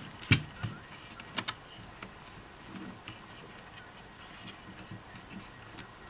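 Sharp clicks and light knocks of hard plastic parts being handled during the cordless vacuum's disassembly. One loud click comes about a third of a second in, a lighter one just after, and a quick double click near a second and a half, followed by faint scattered ticks.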